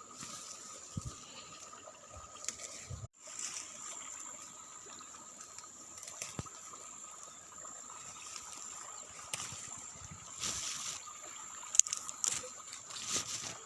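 Water trickling steadily, with a steady high-pitched tone over it and a few short clicks.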